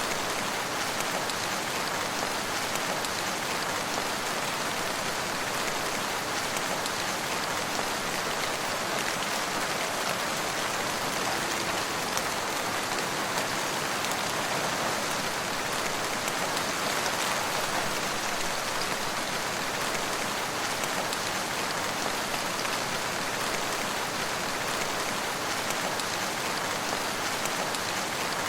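Steady rain falling on surfaces, an even patter of drops with no thunder or breaks.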